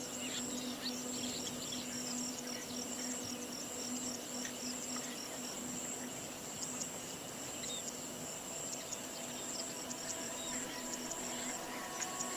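Steady high-pitched insect buzz with scattered short chirps over it, and a low steady hum underneath that fades out near the end.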